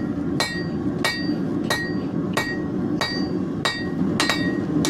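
Hand hammer striking a hot leaf-spring steel blade on an anvil at a steady pace, about one and a half blows a second, each with a bright ring, flattening the blade out. A steady low rush runs underneath.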